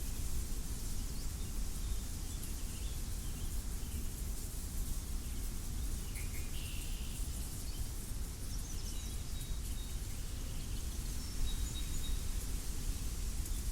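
Wind blowing over a wheat field, with a steady low rumble of wind on the microphone and a hiss of moving stalks. Faint scattered bird chirps come through, with one brief call about six and a half seconds in.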